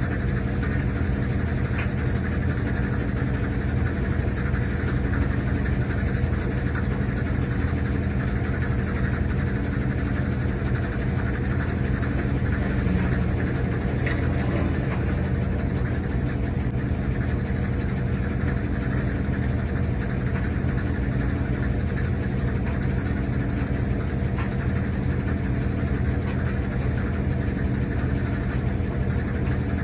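RCA RPW302 portable washing machine running mid-cycle, a steady motor hum. It is picked up through the machine's body by a camera resting on top of it.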